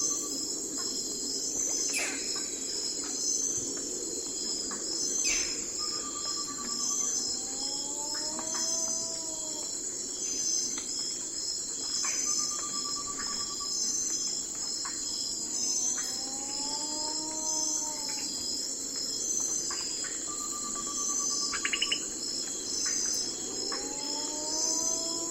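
Night forest ambience: a steady, pulsing chorus of crickets, with bird calls repeating every few seconds over it. The calls are arched whistles that rise and fall, short level whistles, and quick downward-sweeping notes.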